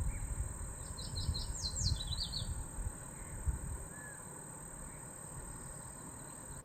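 Outdoor creekside sound with wind gusting on the microphone and a steady high thin tone. About a second in, a bird gives a quick run of short, high chirps, some of them sliding downward.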